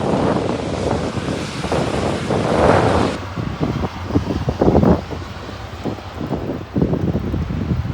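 Storm wind buffeting the microphone in irregular gusts, heavier for the first three seconds and then choppier.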